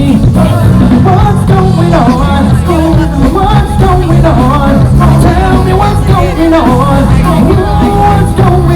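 A band playing a rock-style number, with a steady heavy bass and drums under a wavering lead melody line.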